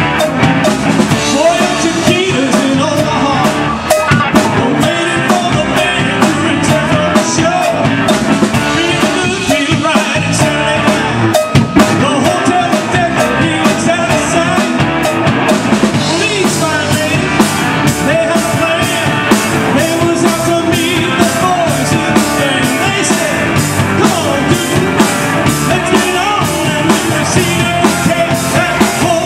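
A rock band playing live, driven by a steady drum-kit beat.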